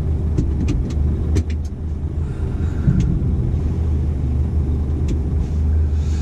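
Dump truck's diesel engine running with a steady low drone, with a few sharp clicks or knocks scattered over the first three seconds.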